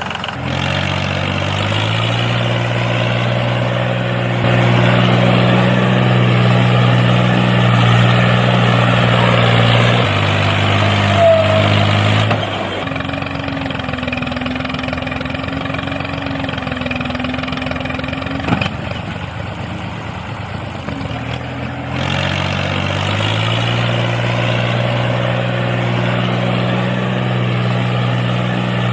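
A mini tractor's small engine running steadily with an even drone. The note shifts abruptly to a different pitch and level a few times, and there is one short knock about two-thirds of the way through.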